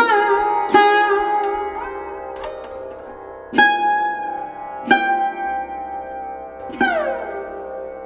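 Background music: a plucked string instrument playing slow, separate notes that ring on and decay, some bent smoothly up or down in pitch, over a steady drone.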